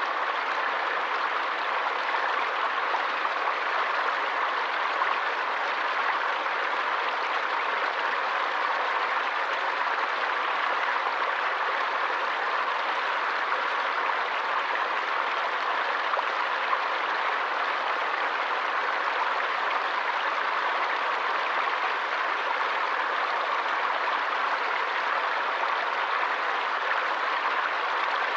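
Forest stream flowing over rocks: a steady, even rush of water with no separate splashes.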